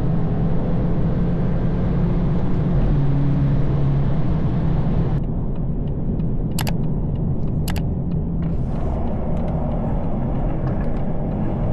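A BMW 220i's tuned B48 turbocharged four-cylinder, with a straight downpipe and M240i exhaust, runs at a steady note while driving. Past the middle the engine note drops away, leaving a lower, duller rumble, and two sharp clicks come about a second apart.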